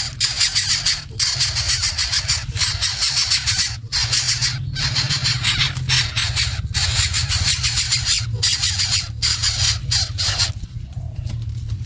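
Baby birds begging: harsh, high-pitched raspy calls repeated in runs with short breaks between them, stopping near the end. A steady low rumble runs underneath.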